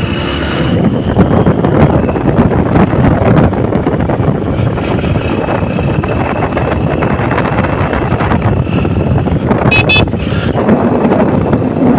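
A vehicle running along a street with wind buffeting the microphone, a steady rumble and rush. A brief high-pitched tone sounds about ten seconds in.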